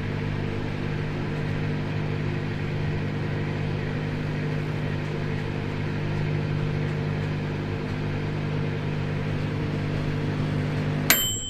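Microwave oven running with a steady hum, then a click and a ringing ding near the end as the cycle finishes.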